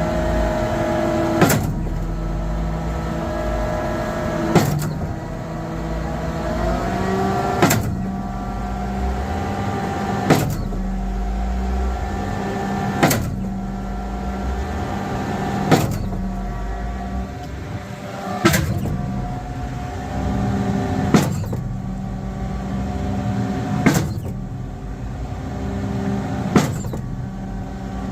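KCP 42 m concrete pump truck running, its engine holding a steady note with a short rise in pitch about a quarter of the way in. A sharp clank repeats about every 2.7 seconds, the regular rhythm of the pump's cylinders changing stroke.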